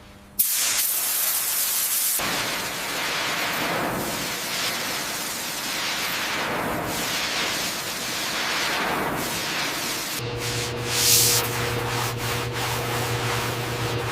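A steady, loud hiss that starts suddenly, like spraying or abrasive work on metal. About ten seconds in, a low steady hum joins it, and near eleven seconds there is a brief sharper burst of hiss.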